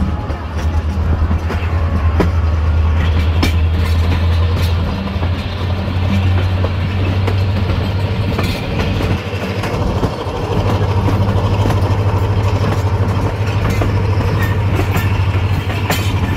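Passenger train coaches running on the track, heard from aboard beside an open coach door: a steady low rumble with scattered sharp clicks of the wheels over rail joints.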